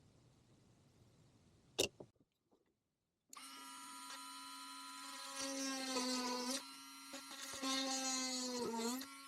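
An electric power tool's motor runs with a steady whine, getting louder and softer a few times as its load changes, and stops near the end with a short drop in pitch. It is preceded by a single sharp click.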